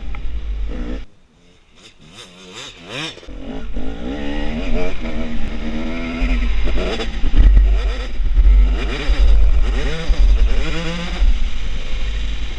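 KTM 250 SX two-stroke dirt bike engine revving up and down hard as it is ridden round a motocross track, the pitch rising and falling with the throttle. About a second in it falls away almost to nothing, then builds back up over the next couple of seconds.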